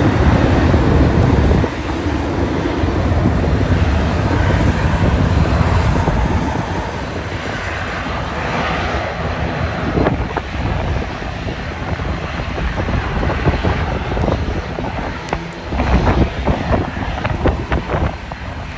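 Boeing 737-800 airliner's CFM56-7B jet engines running loud as it departs, a steady low rumble with a hiss over it. Wind buffets the microphone in gusts in the latter part.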